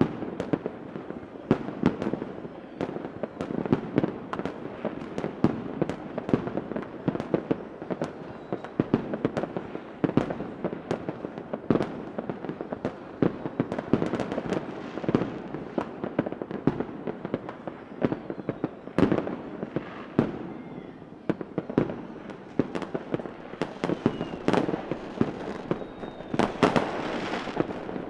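Fireworks going off continuously: many sharp bangs and crackles one after another over a steady rumble, with a few faint rising whistles near the end.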